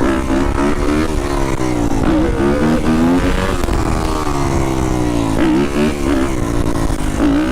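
Dirt bike engine running, its pitch rising and falling several times as the throttle is opened and eased off.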